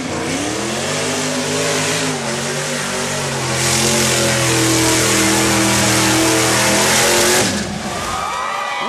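Mud truck engine revving hard through a mud pit. The pitch climbs over the first couple of seconds and is held at high revs, loudest in the middle, then drops off about a second before the end.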